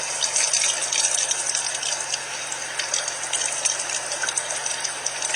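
Shower water running steadily, a hiss of spray with small splatters.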